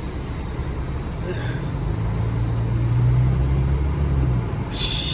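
ProCharger-supercharged Camaro engine running at low speed with a steady low drone that grows louder for a couple of seconds midway. A short hiss comes near the end.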